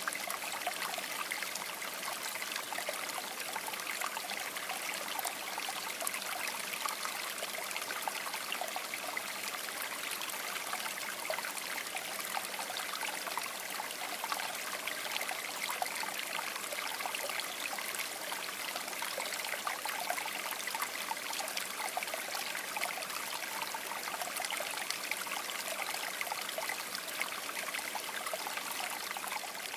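River water babbling and trickling over stones, a steady dense rush of water.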